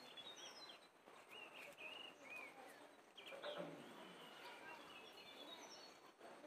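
Faint birds chirping: short calls that rise and fall in pitch, scattered through a quiet outdoor background hiss, with a brief slightly louder noise about halfway.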